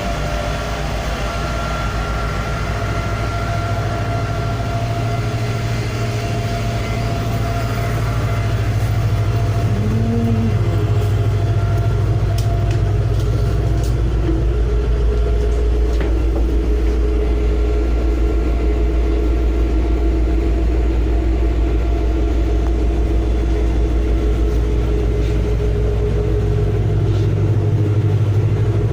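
Ferry's engine running with a steady low rumble and hum, growing a little louder about a third of the way through.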